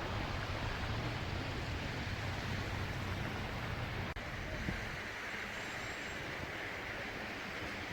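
Steady blizzard wind with a low rumble, wind buffeting the microphone; the rumble eases a little after about four seconds.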